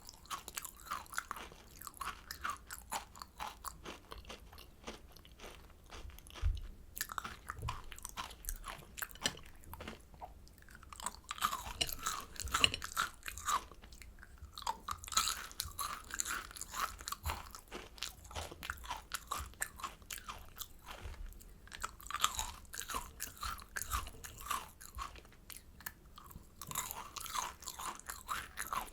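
Close-miked chewing and biting of kohakuto, sugar-crusted agar jelly candy, with crisp crunching and crackling in runs and short pauses.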